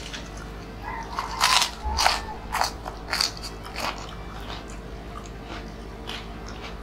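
Crispy snack crackers crunched and chewed close to the microphone, a string of sharp crunches from about a second and a half in to about four seconds, loudest near the start of the string.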